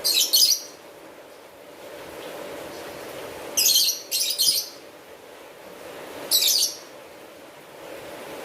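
A bird calling in short, high, chirping bursts: four calls, two of them in a quick pair, over a steady background hiss.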